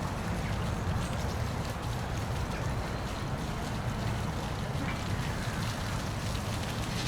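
Steady rush of falling water from a park waterfall, with an even low rumble underneath.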